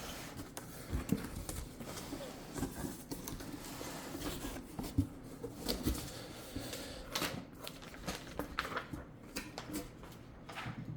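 Cardboard speaker box being opened and its foam and plastic packing handled: irregular rustling and scraping with scattered light knocks.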